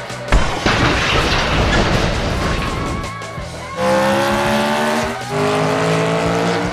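A knock, then a few seconds of rushing noise, then a race-car engine sound effect revving up twice in rising sweeps, over background music.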